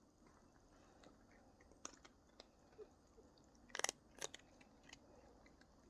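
Cats chewing snack treats: faint, scattered crunches, with a louder cluster of crunches about four seconds in.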